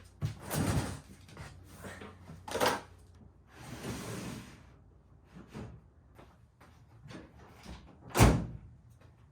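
Camping gear being handled and packed: a series of knocks and bumps, a brief rustling slide about four seconds in, and one hard shutting thump about eight seconds in, the loudest sound.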